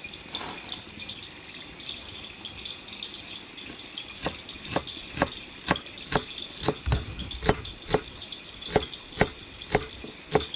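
Sharp kitchen knife chopping coriander, the strokes starting about four seconds in and going at about two a second, over steady chirping of crickets.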